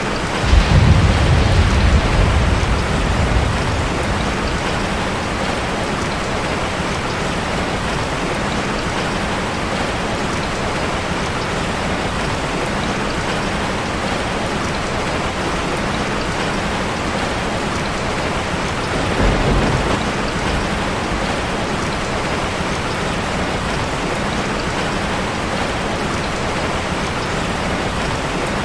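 Steady rain on a metal roof. A low rumble of thunder comes in about half a second in and fades over three seconds, and a fainter rumble follows about twenty seconds in.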